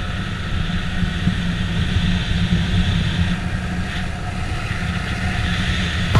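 Motorbike running steadily while being ridden, with wind on the microphone.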